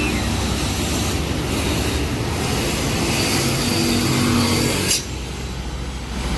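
A loaded truck's diesel engine pulling up a steep climb, running steadily under load. The sound changes abruptly about five seconds in.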